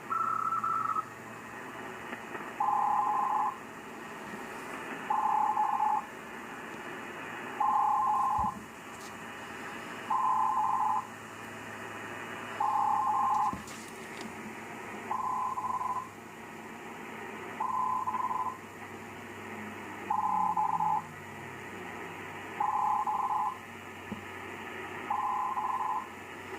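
A ham transceiver's receiver (Yaesu FTDX-5000MP) plays a repeating two-tone beep over steady band hiss. Each beep lasts under a second and comes about every two and a half seconds. A faint low carrier whistle slides down in pitch about twenty seconds in.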